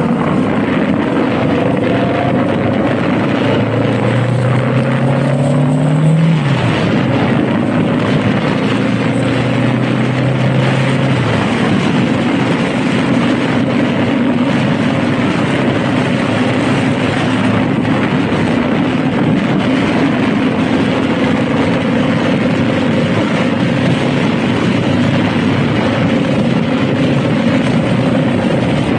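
Honda Rebel motorcycle being ridden: the engine running under a steady rush of wind. The engine note climbs for a couple of seconds and drops sharply about six seconds in, then holds steady.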